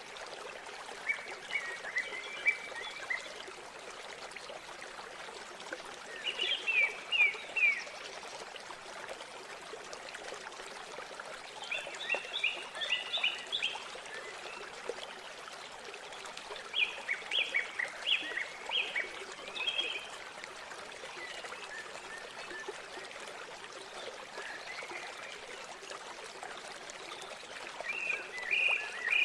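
River water flowing steadily, with a bird calling every few seconds in short runs of quick high notes.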